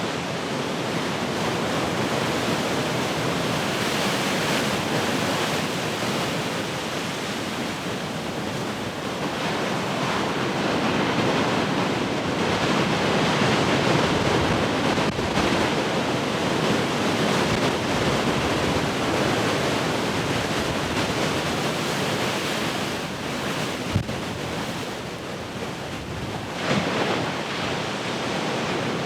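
Heavy ocean surf breaking continuously, a dense rushing noise that swells and eases as the waves come in, with wind on the microphone. There is a single brief low thump about four-fifths of the way through.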